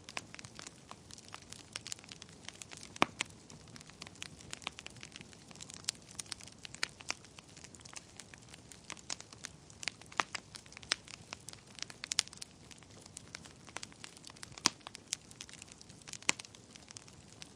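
Wood fire burning in a fireplace: irregular crackling and sharp pops over a soft hiss, with a few louder pops scattered through.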